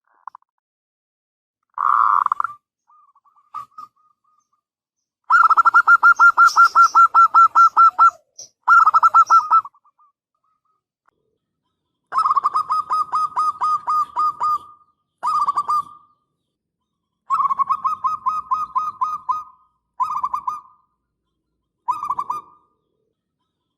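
Zebra dove (perkutut) cooing: about eight phrases of quick, pulsed staccato notes with silent gaps between them, the longest a rolling run of notes lasting nearly three seconds, about five seconds in.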